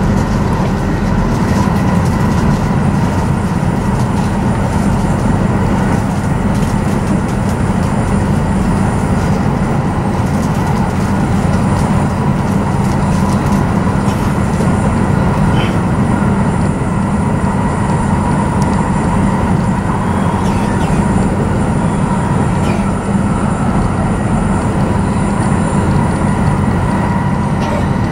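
Steady running noise inside the passenger cabin of an E7 series Shinkansen train under way: a low, even rumble of wheels on rail, with a faint steady hum above it.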